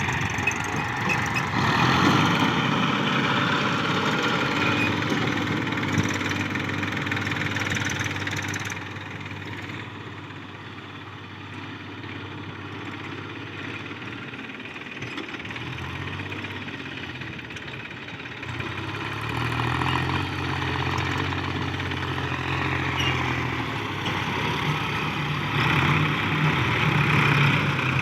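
Farm tractor engine running steadily while working, its loudness swelling and easing: louder in the first few seconds, quieter through the middle, then louder again toward the end.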